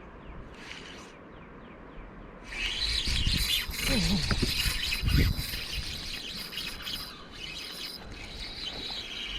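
Birds chirping and calling, thickening to a dense high chorus a couple of seconds in, with a few dull knocks and rubbing sounds close by in the middle.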